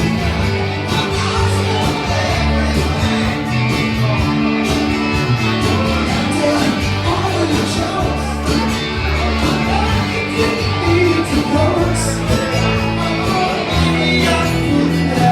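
A rock band playing, with bass, drums and guitar, and a singer.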